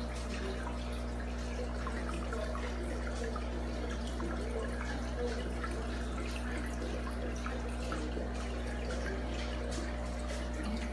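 Saltwater aquarium's hang-on-back filters running: water trickling and splashing back into the tank over a steady low pump hum.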